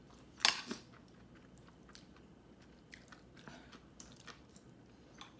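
Close-up eating sounds: a sharp bite about half a second in, then quiet chewing with scattered small crunches and mouth clicks.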